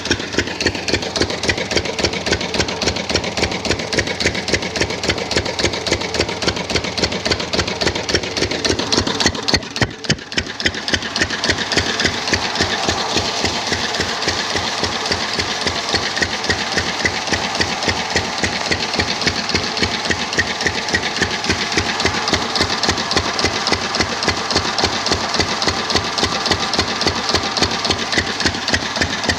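Engine running at idle with a steady, even beat of pulses several times a second; the level dips briefly about ten seconds in, then picks up again.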